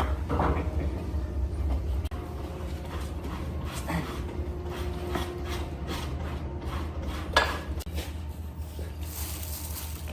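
Workshop handling noise: scattered clinks, knocks and rubbing of tools and wood over a steady low hum, with one sharper knock about seven seconds in.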